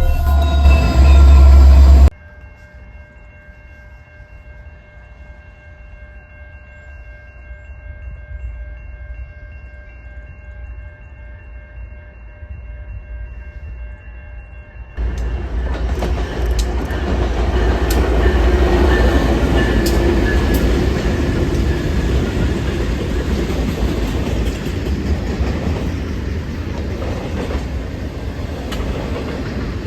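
A train passing close by, with rumble and wheels clattering over the rails and sharp clicks, starting abruptly about halfway in. Before it comes a quieter stretch with faint steady tones, after a loud low rumble in the first two seconds.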